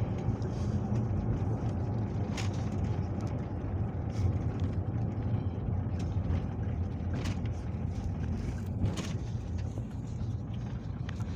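Peugeot Boxer minibus heard from inside the cabin while driving: a steady low engine and road rumble, with a few brief knocks or rattles.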